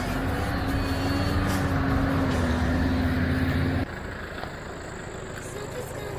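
Off-road 4x4 vehicle engine running steadily under load, which cuts off abruptly about four seconds in to a quieter hiss.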